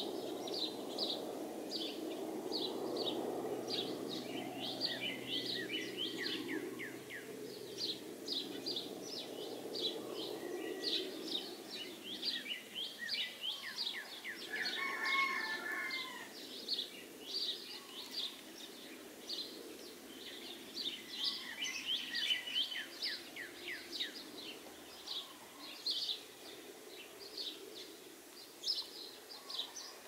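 Small songbirds chirping in quick, high, repeated notes throughout, with a louder lower call about halfway through. Under them a low steady rushing noise fades out about a third of the way in.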